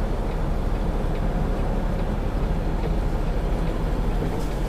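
Semi truck's diesel engine running steadily, heard from inside the cab as the tractor-trailer turns hard while backing.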